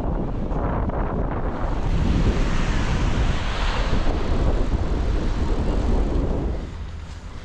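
Wind buffeting the microphone with a loud, steady rushing noise and deep rumble, swelling and brightening in the middle, then dropping off sharply near the end.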